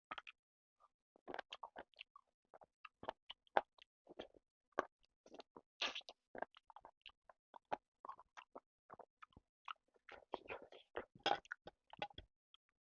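Close-up eating sounds of a person biting and chewing chicken with rice: a rapid, irregular run of short smacks and clicks, densest around the middle and toward the end.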